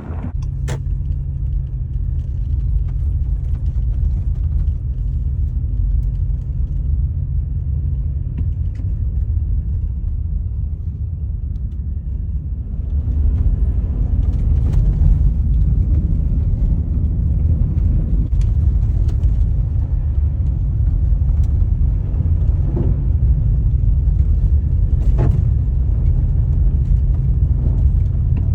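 Car driving on a winter road, with a steady low rumble of engine and tyres. It grows louder about 13 seconds in.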